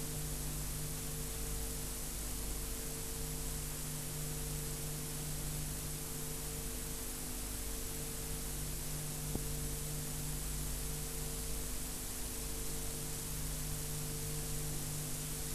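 Steady hiss with a low electrical hum and no speech: the recording's own background noise. A single faint click about nine seconds in.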